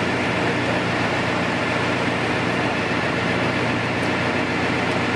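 Steady engine noise of construction machinery: a constant running drone with a dense even rumble, no sudden knocks.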